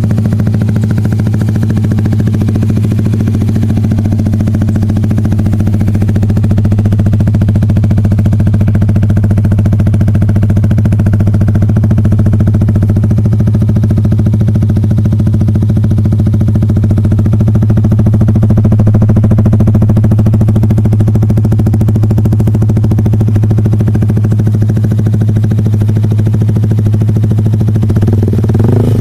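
Yamaha R15 single-cylinder four-stroke engine idling steadily through a Proliner aftermarket racing exhaust, loud and even.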